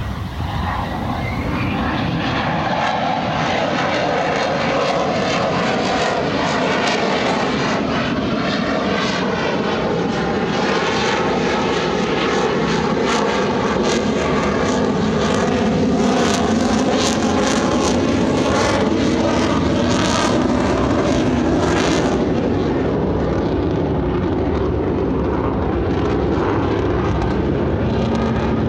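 Single-engine F-35 Lightning's jet engine running loud and steady through a slow, low pass. Its roar carries slowly sweeping tones and turns rough and crackling in the middle of the pass.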